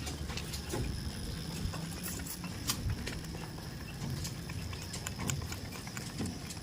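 Livestock moving about: scattered light knocks and clicks over a low, steady rumble.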